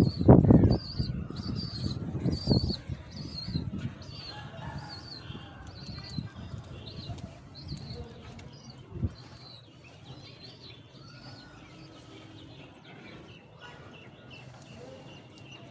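Pigeons flapping their wings in a flurry at the start, fading over the first few seconds. Through the first half, birds give short high chirps about twice a second.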